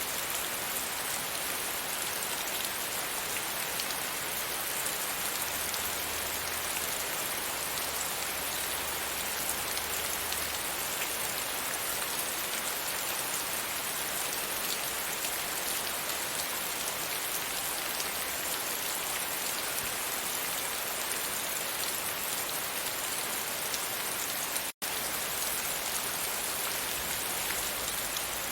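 Steady, even rain falling against a window. The sound drops out completely for an instant near the end, then carries on unchanged.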